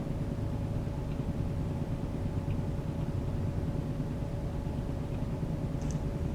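Road noise inside a moving car's cabin: a steady low rumble of tyres and engine with a constant hum over it, and a brief faint high squeak near the end.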